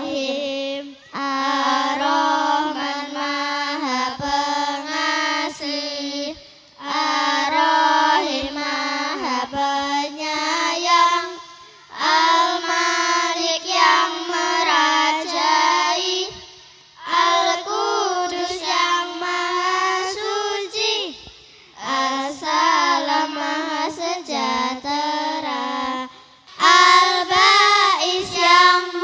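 Children singing in phrases of a few seconds each, with short breaks between them; the last phrase, near the end, is louder.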